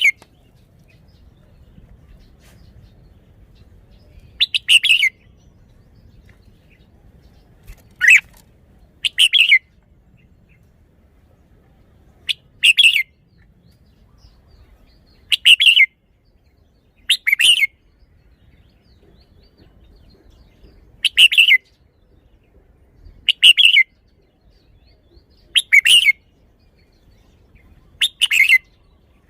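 Red-whiskered bulbul singing short, loud song phrases, about ten in all, one every two to three seconds.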